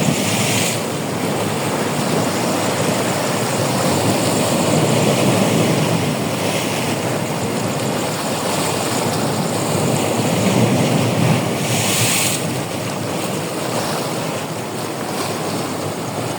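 Sea waves breaking and washing on the shore, a continuous rushing that swells and eases in slow surges, with a brief sharper hiss about twelve seconds in.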